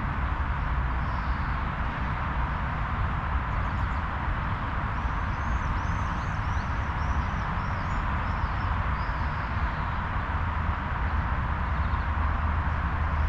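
Steady outdoor ambience, a low rumble with an even hiss over it, and a small bird giving a quick run of high chirps from about five seconds in for around four seconds.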